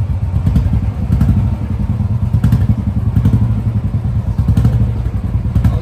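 Royal Enfield Bullet motorcycle's single-cylinder engine running, a dense, rapid low beat of firing pulses, with a few faint knocks.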